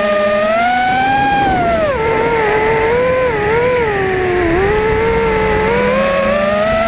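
Quadcopter drone's propellers and motors whining steadily, the pitch gliding up and down as the drone speeds up and slows, with a dip about two seconds in and a lower dip near the middle.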